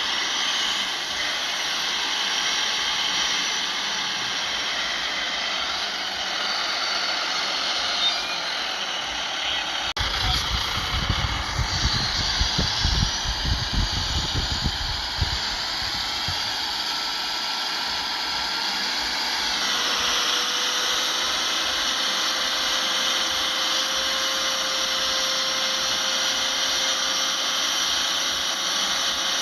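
Heavy earthmoving machinery running at work, a steady engine with a high mechanical whine. From about ten to sixteen seconds in, a run of low rumbles and uneven thumps comes in. Near twenty seconds the whine drops in pitch and settles into a steady tone.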